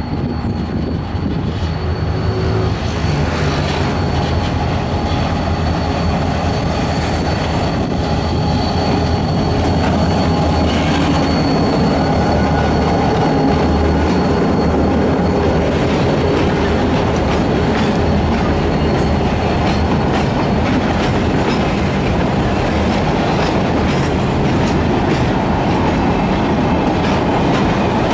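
Diesel freight locomotive passing close by, its engine running with a low drone, followed by a long string of steel mineral hopper wagons rolling past with rhythmic clickety-clack over the rail joints. A thin, steady wheel squeal sounds through the first half.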